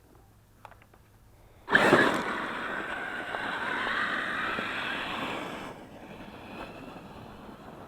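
Electric RC monster truck under hard throttle: a sudden burst of motor whine and tyre noise whose pitch dips and then climbs. After about four seconds it drops to a quieter run.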